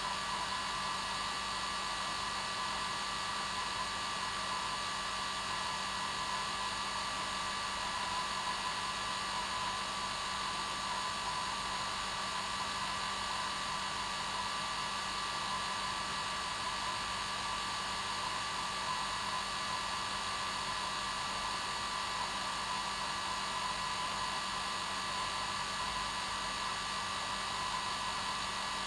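Hair dryer running continuously at one setting, a steady blowing hiss with a faint fixed whine from its motor and fan.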